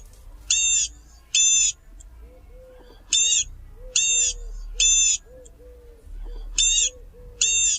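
A bird calling: loud, short, high-pitched notes in groups of three, each group repeated about every three seconds, with softer, lower notes between them.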